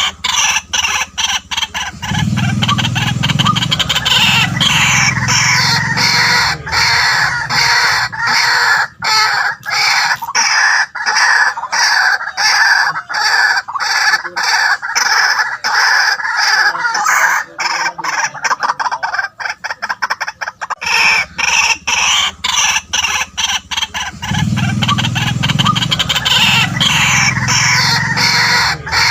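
White-breasted waterhen calling: a fast, unbroken run of harsh repeated notes, with deeper, fuller croaking stretches about two seconds in and again near the end.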